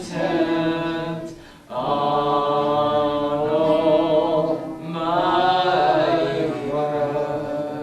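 Sung worship music: a voice holds long, sustained notes in phrases. There are brief breaks about a second and a half in and again near the five-second mark.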